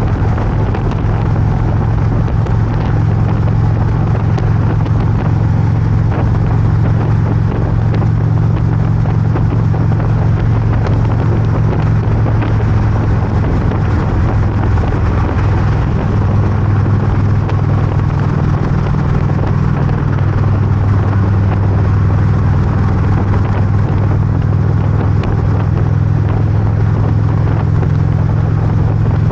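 Harley-Davidson motorcycle's V-twin engine cruising at steady highway speed, a constant low drone with no change in revs.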